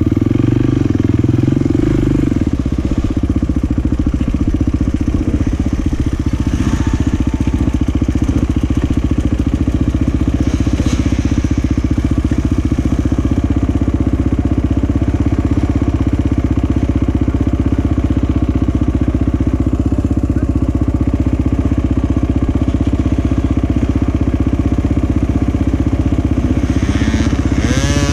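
Motocross motorcycle engines running loudly and steadily, with a rise in revs near the end.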